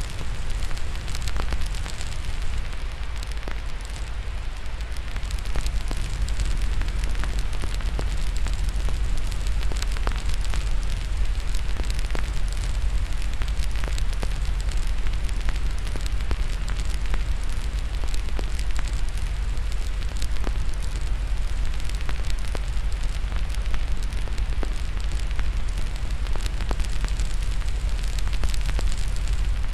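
Fireplace fire crackling, with frequent small sharp pops and snaps over a steady rushing noise bed that is heaviest in the deep low end.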